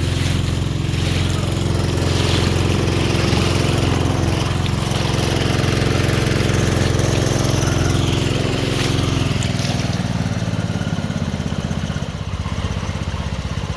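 Small gasoline engine of a gold-dredging rig running steadily. About nine and a half seconds in, its sound changes: the higher tones drop away and it runs on lower.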